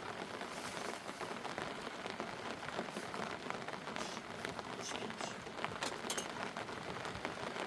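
Steady rain falling: a dense patter of drops with scattered sharper ticks.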